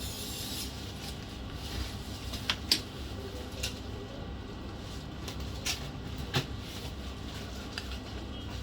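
Small hard clicks and taps, about six scattered ones with the loudest about two and a half seconds in, over a steady low hum.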